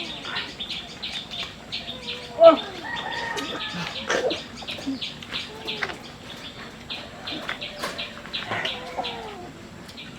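Small birds chirping in a quick, even series, about three or four chirps a second, with chickens clucking now and then. A short spoken 'oh' comes about two seconds in.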